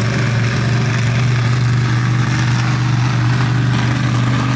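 Monster truck engine running steadily at idle, an even, unchanging drone.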